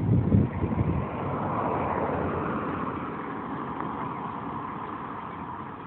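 Motorcycle on the move: a loud low engine rumble in the first second, then a steady rushing road and wind noise that slowly fades.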